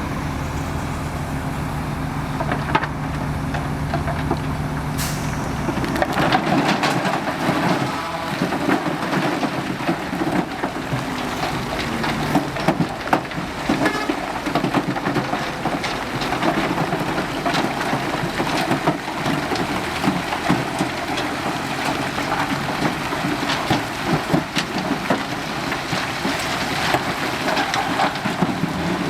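Heavy diesel earthmoving machinery at work. A diesel engine runs steadily for the first six seconds or so, then gives way to continuous crunching and rattling as loose soil and stones are dumped and pushed.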